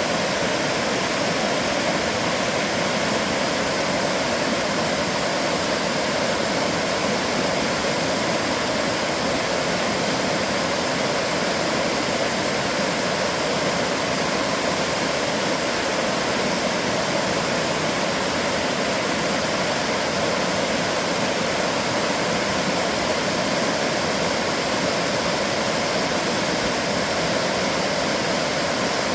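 Steady rushing water: a continuous, even hiss and rush with no changes or separate splashes.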